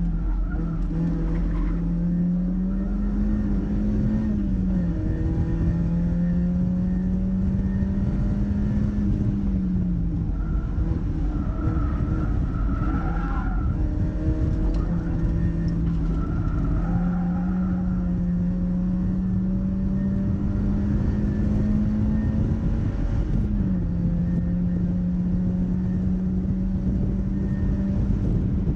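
Mazda MX-5's four-cylinder engine driven hard on track, its note climbing and then dropping sharply about three times with gear changes and braking. Tyres squeal briefly near the middle.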